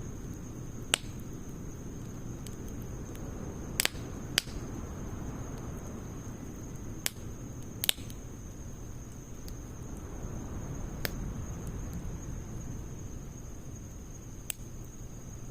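Campfire of firewood and pine needles burning, with about seven sharp crackles and pops scattered irregularly over a low, steady rustle of the flames.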